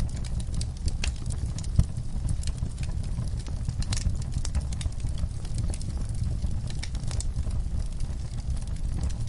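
Wood fire burning in a fireplace: a low steady rumble with frequent irregular crackles and pops, one sharper pop just under two seconds in.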